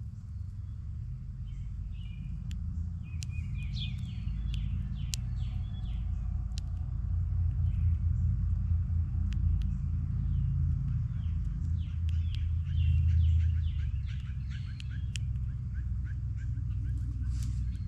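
Songbirds chirping and calling around a backyard bird feeder, many short chirps with a quick series of repeated notes in the middle, over a steady low rumble that is the loudest sound throughout.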